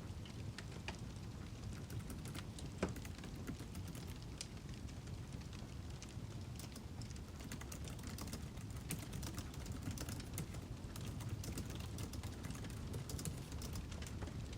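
Wood fire crackling: a steady low rumble with irregular small pops and snaps, one sharper pop about three seconds in.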